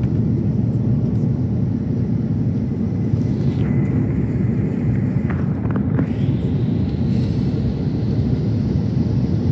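Steady cabin noise of an Airbus A330-900 in flight: a constant deep rumble and hiss of jet engines and airflow, heard from inside the passenger cabin.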